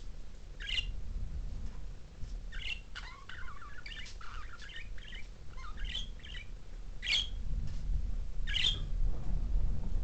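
Pet budgerigars chirping and warbling over a low rumble: a single chirp about a second in, a run of quick chattering chirps through the middle, and two sharper calls near the end.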